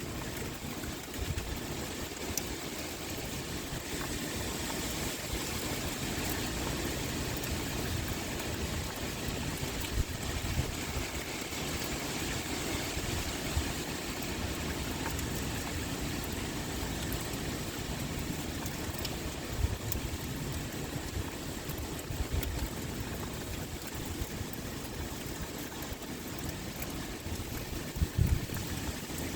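Steady heavy rain pouring, a continuous hiss of falling water. A few brief low thumps or gusts break through now and then, the strongest near the end.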